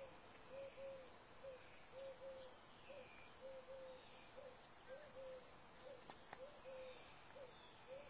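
Faint bird calls: soft, low coos repeated about twice a second, often in pairs, with fainter, higher chirps from other birds behind them.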